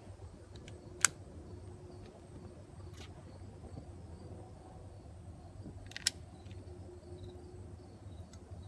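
Gasoline-soaked firewood burning, a low steady rumble of flames with three sharp crackles about one, three and six seconds in.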